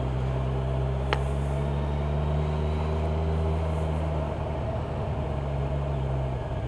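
Kawasaki Ninja 1000SX's inline-four engine running at a steady note under way, heard from the rider's helmet, its note shifting about four seconds in.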